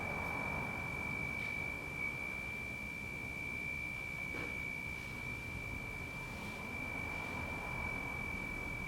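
A steady high-pitched pure tone held without a break, over low background rumble, with a few faint ticks.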